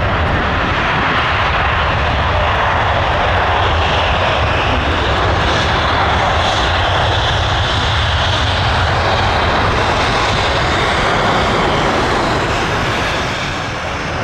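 Jet airliner's engines, a loud steady rush of noise, easing slightly near the end.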